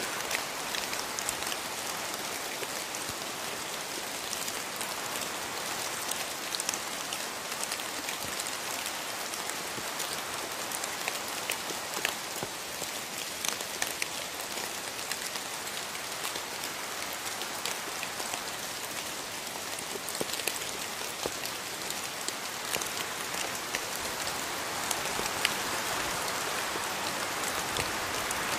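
Steady rainfall in a rainforest, an even patter with many individual drops landing close by.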